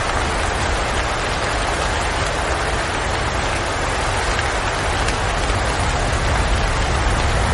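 Steady rain falling outside a window, with a low rumble of wind beneath it.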